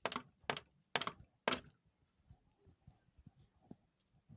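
A run of four sharp thumps about two a second, stopping about a second and a half in, then only faint small handling sounds.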